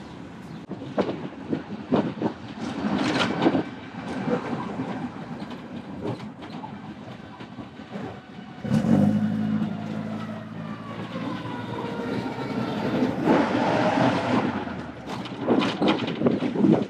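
Ride in a classic car through city traffic: road and wind noise with scattered knocks and clatter. About nine seconds in, a deep engine drone starts suddenly and holds for several seconds, with a whine falling in pitch above it.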